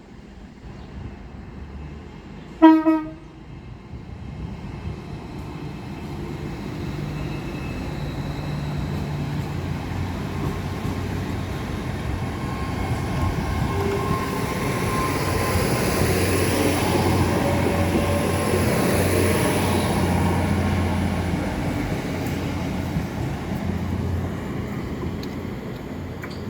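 A train sounds one short horn blast about three seconds in, then passes by: its rumble and wheel noise build to a peak midway, with a thin high whine over it, and ease off near the end.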